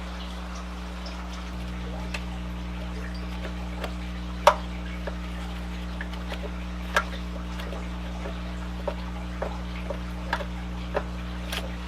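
Scattered light clicks and clinks of hand tools and small metal engine parts being handled during mini bike engine disassembly, over a steady low hum. The sharpest click comes about four and a half seconds in.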